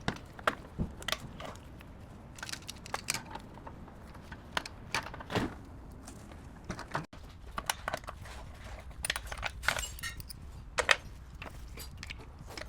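Irregular light clicks, taps and clinks of hand tools and small metal parts being handled during hands-on work.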